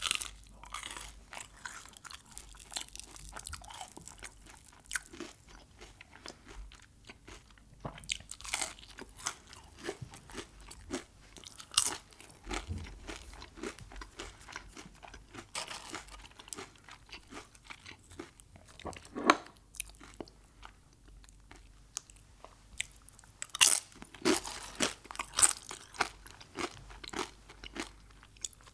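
Close-up chewing and biting of crunchy Mexican food: irregular crisp crunches throughout, with louder runs of crunching about eight seconds in and again over the last few seconds.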